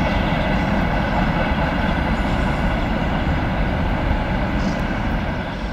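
Freight train hauled by a 2M62 twin-section diesel locomotive rolling past at a steady speed: continuous rolling noise of wheels on rail, with faint steady tones over it.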